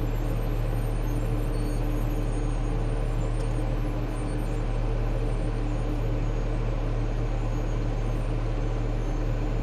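Caterpillar D6K2 XL bulldozer's diesel engine running with a steady, low drone.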